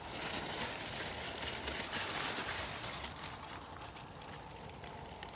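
Bush bean plant leaves rustling and crackling close to the microphone, louder over the first three seconds and then easing off.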